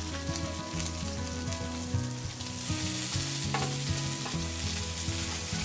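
Quail pieces shallow-frying in oil in a pan: a steady crackling sizzle.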